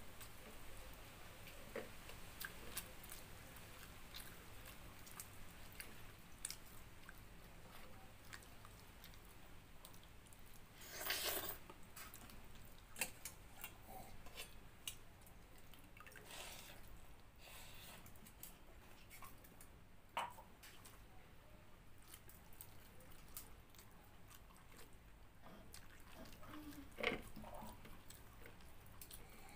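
A person eating chicken curry with pakhala (watery rice): soft, wet chewing and squishing with scattered small clicks, and a louder noisy burst about eleven seconds in.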